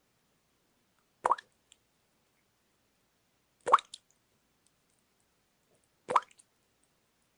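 Water drops falling one at a time into water, each a short plop whose pitch rises quickly, three drips about two and a half seconds apart.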